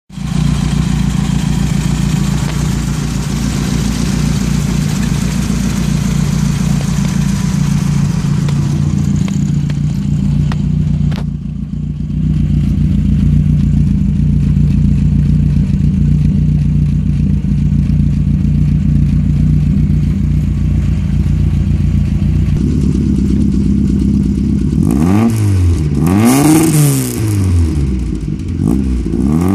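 VW 16-valve KR four-cylinder engine on GSX-R motorcycle carburettors running at idle on its first start after being fitted. It is heard first over the open carb intakes, then at the tailpipe. Near the end the throttle is blipped a few times, the revs rising and falling quickly.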